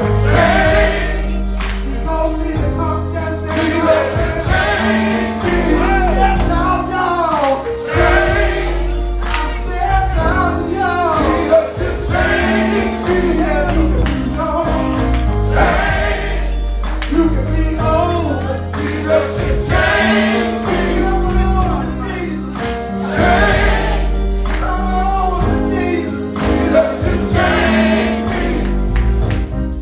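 Gospel music: a choir singing with a backing band, over a steady bass line and regular percussion.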